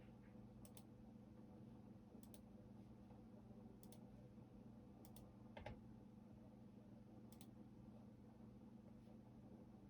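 Slow, sparse computer-keyboard key clicks: five short double clicks spaced a second or more apart, with one heavier knock about halfway through, over a faint steady hum.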